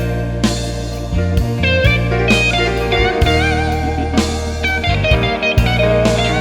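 Blues band playing an instrumental passage: an electric lead guitar solos with bent notes and vibrato over bass and drums.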